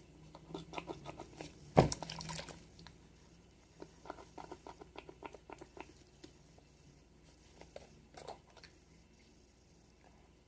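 Small objects being handled on a tabletop: a series of light clicks and taps, with one sharp knock about two seconds in.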